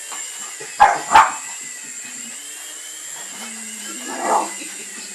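Jack Russell terrier barking: two sharp barks in quick succession about a second in, and one more near the end. Under it the steady high whine of a model remote-control helicopter's electric motor.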